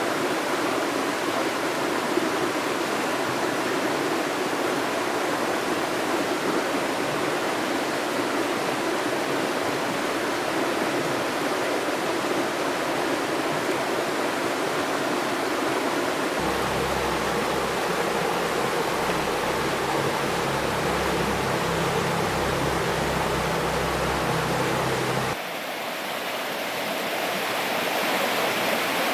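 Steady rushing of river water. A low rumble joins it for about nine seconds in the second half, and the sound changes abruptly and briefly drops a few seconds before the end.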